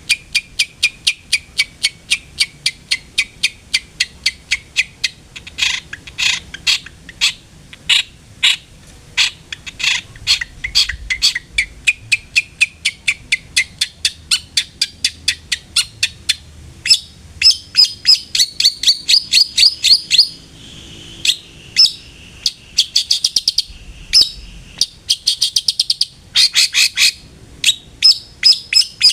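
Long-tailed shrike (cendet) singing a rapid chattering series of sharp, harsh notes, about three or four a second at first, then running into faster, denser trills in the second half.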